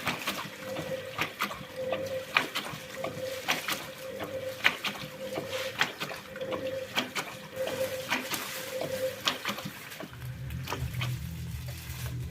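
Thomson front-loading washing machine in its wash cycle: laundry and water slosh and knock in the turning drum, with a short motor whine about once a second. Near the end a low hum joins in.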